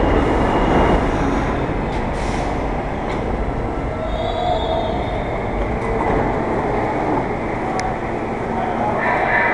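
New York City subway train running through an underground station, a steady rumble of wheels on rail with faint squealing, and a louder high-pitched wheel squeal starting near the end.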